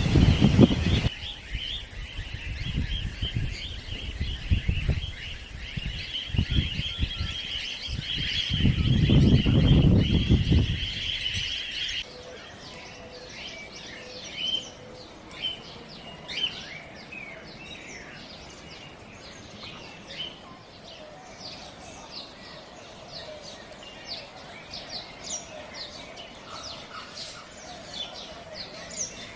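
A flock of wild cockatiels calling together in a dense, continuous chatter, with gusts of wind buffeting the microphone. About twelve seconds in, the sound cuts to sparser, scattered chirps and calls.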